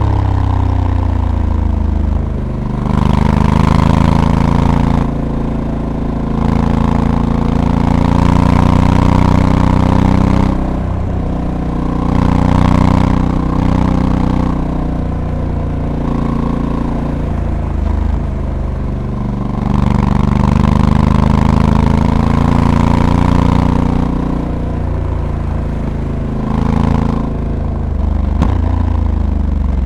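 Honda Africa Twin's 1084 cc parallel-twin engine under way on a motorcycle. The revs climb and drop back again and again, with short breaks every few seconds as the dual-clutch transmission shifts gear and the throttle rolls off and on.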